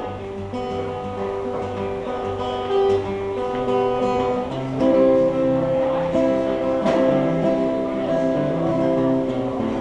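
Acoustic guitar playing an instrumental passage of a folk song, with ringing chords that change every second or two and one sharper strum about seven seconds in.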